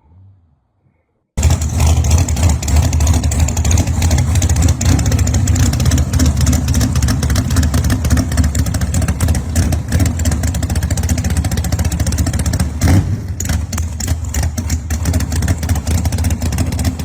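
A loud muscle-car engine running with a deep exhaust rumble, cutting in abruptly about a second in after near silence, with a brief louder burst about two-thirds of the way through.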